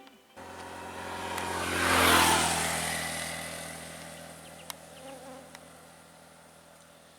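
Buzzing small-engined vehicle passing by: it grows louder over about two seconds, then slowly fades away.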